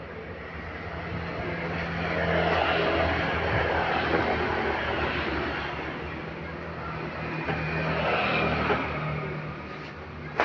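Road traffic: vehicles passing, a rushing of engine and tyre noise that swells and fades twice, over a steady low engine hum.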